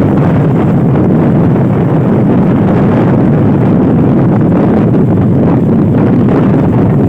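Strong wind buffeting the microphone, a loud, steady rumble.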